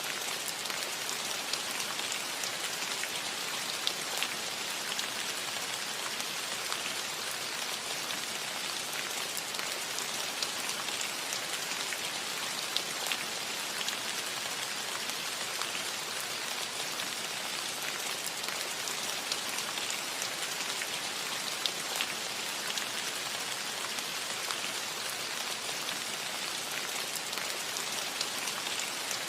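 Steady rain falling on a metal roof: an even hiss with scattered individual drop taps.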